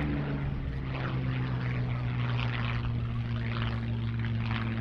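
Curtiss P-40F warbird in flight, its Packard-built Merlin V12 engine giving a steady drone at an even pitch, with propeller rasp over it.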